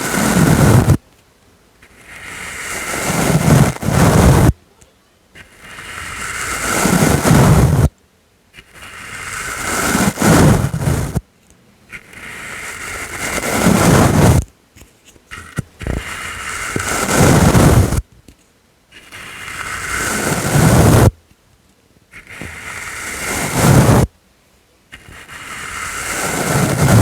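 Soft brush stroked over the microphone in slow sweeps, each one growing louder with a deeper rumble as it presses closer and then stopping abruptly. About eight strokes, with a short pause between each.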